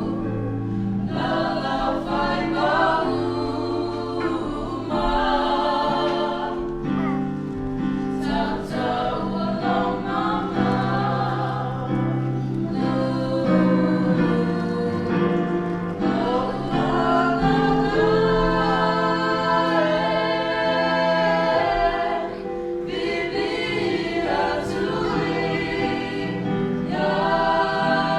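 A small group of young voices, three girls and a boy, singing a song together with long held notes.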